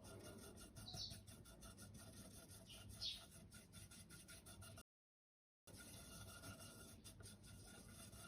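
Near silence: faint room tone, with two brief faint high squeaks about one and three seconds in, and a moment of total silence just before the middle.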